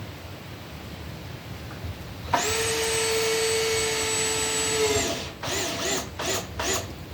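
Power drill running at a steady speed for nearly three seconds, then four short trigger bursts, the pitch rising and falling with each. It is driving screws into the wooden framing of a chicken coop.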